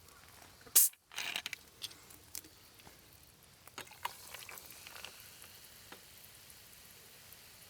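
Food sizzling and crackling while cooking over a campfire, with one loud sharp crack just under a second in, then scattered pops and a faint steady sizzle.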